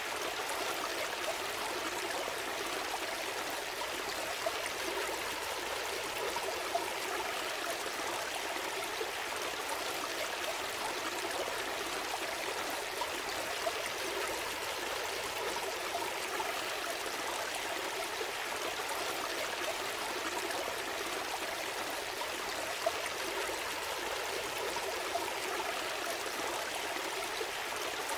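A gentle stream flowing steadily, water trickling and babbling over stones.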